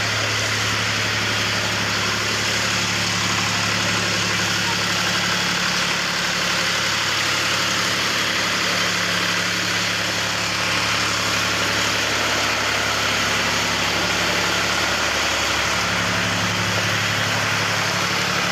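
A vehicle engine idling with a steady low hum, over a constant dense hiss.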